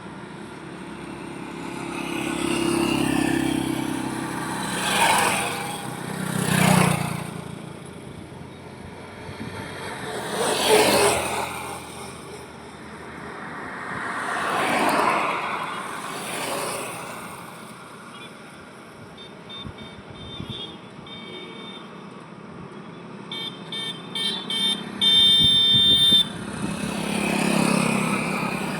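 Highway traffic, with vehicles passing one after another, each swelling up and fading away. Near the end a vehicle horn sounds in a series of short toots and then a longer blast, the loudest sound here.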